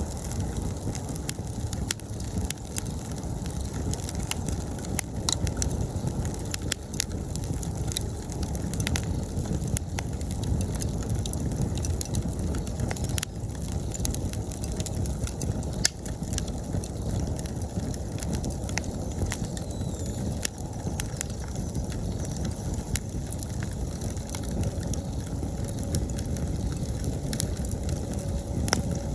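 Wood campfire burning with a low, steady rumble and frequent sharp crackles and pops. Autumn insects keep up a faint, steady high trill behind it.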